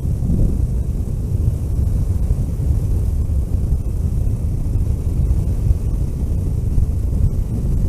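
Steady low rumble of a vehicle driving on the road, engine and road noise together, with wind buffeting the microphone.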